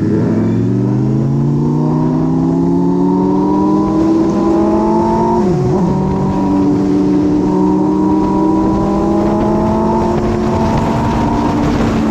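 Motorcycle engine heard from on the bike, pulling with its pitch rising steadily through the first half. About halfway through the pitch dips briefly, then the engine holds a steady cruise.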